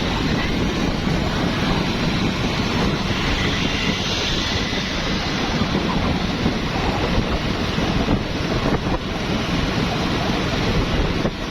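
Continuous street traffic of motorbikes, cars and tuk-tuks, a steady dense rumble mixed with wind buffeting the microphone.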